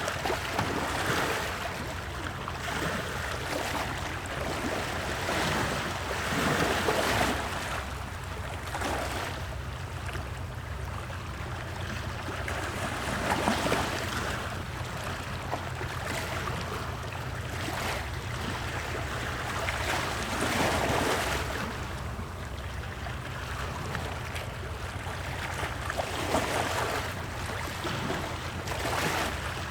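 Wood fire burning in a fireplace: a rushing flame noise that swells every few seconds, with scattered crackles, over a steady low rumble.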